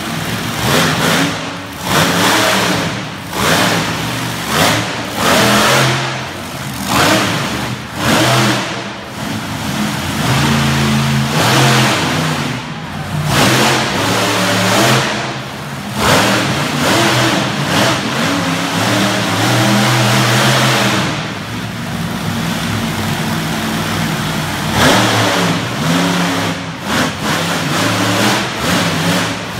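Monster truck engine revving hard over and over, the throttle blipped on and off every second or two, with a few longer held pulls in between.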